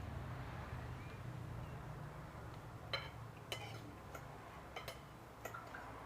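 A few sharp clinks of cutlery and dishes at a table, spaced irregularly from about halfway through, over a low steady hum.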